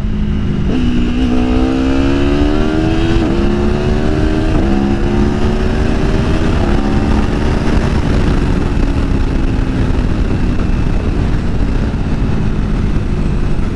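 Aprilia Tuono V4 motorcycle's V4 engine accelerating hard, its pitch climbing through the gears with quick-shifter upshifts about 3, 4.5 and 6.5 seconds in, then holding a steadier, slightly falling note. Wind rushes over the microphone throughout.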